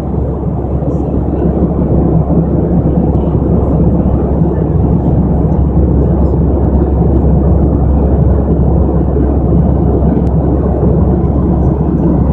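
Steady in-flight cabin noise inside an Airbus airliner: the jet engines and the airflow around the fuselage make a low, even drone.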